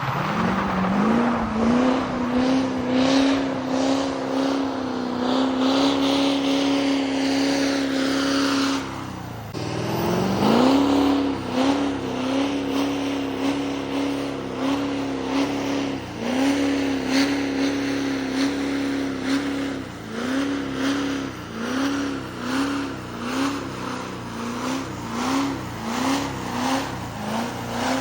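LBZ Duramax 6.6-litre turbodiesel V8 revved up and held steady for several seconds, dropping off about nine seconds in. It revs up and holds again, then gives a string of quick rev blips, about one a second, near the end.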